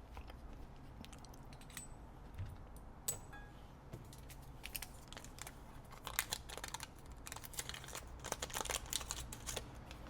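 Paper wrapper of a Kai double-edge razor blade crinkling and tearing as it is unwrapped, dense in the second half. A few small metallic ticks come earlier.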